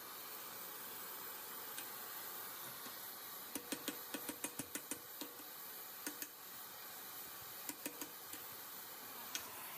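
A run of light, sharp taps, about ten in quick succession starting about three and a half seconds in, then a few scattered ones later, over a steady hiss.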